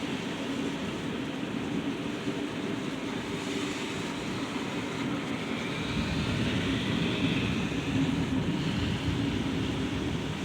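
Thunderstorm: a low, continuous rumble of thunder under a steady hiss of rain, swelling a little past the middle.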